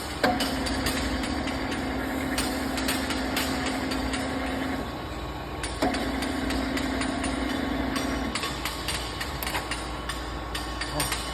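Electric motor of a turret milling machine running with a steady hum in two spells, about four and a half seconds and then two and a half seconds, each starting with a sudden click. Scattered light ticks and knocks sound throughout.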